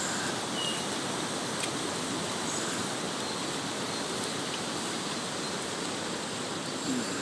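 Floodwater of the Hodgkinson River, swollen by heavy rain, rushing in a steady, even wash. A few faint short high chirps sit on top of it.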